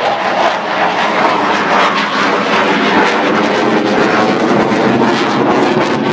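Loud, steady roar of a display aircraft's engine passing close by.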